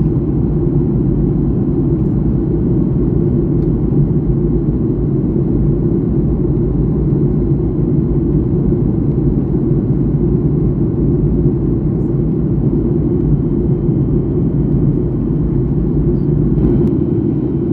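Steady jet airliner cabin noise heard from a passenger seat in flight: a constant low roar of engines and airflow, with a faint high steady tone above it.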